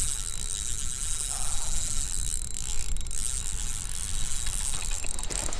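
Fishing reel being cranked to bring in a hooked bass, its gears clicking and grinding softly, over a steady low rumble of wind on the microphone.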